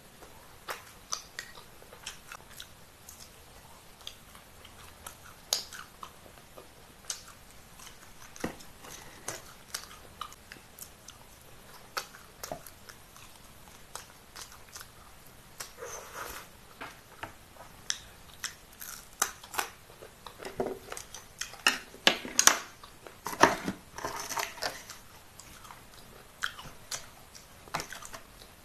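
A person chewing and biting food close to the microphone: a string of short, wet mouth clicks and smacks at an irregular pace, thickest and loudest about three-quarters of the way through.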